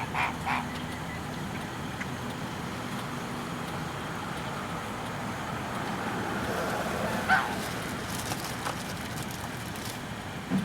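Steady low rumble of a slow-moving car, with a few waterfowl honks at the start and one louder honk about seven seconds in.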